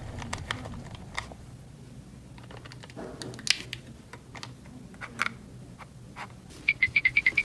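Small plastic toy pieces clicking and tapping as they are handled. Near the end comes a rapid run of about a dozen short high electronic beeps.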